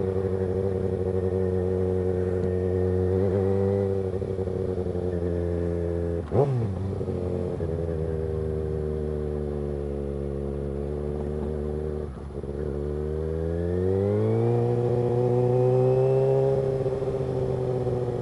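Kawasaki ZX-6R 636's inline-four engine running through an M4 GP-style aftermarket exhaust while riding, holding steady revs. A short sharp burst comes about six seconds in. Past the middle the revs dip briefly, then rise as the bike accelerates, holding high before easing off near the end.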